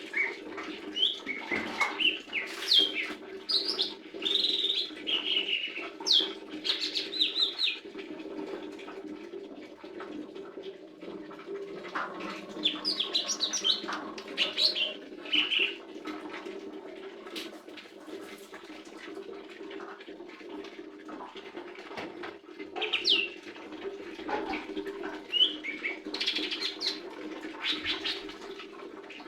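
Lesser green leafbird singing in three spells of quick, high, sweeping chirps and short whistles, with quieter gaps between, over a steady low hum.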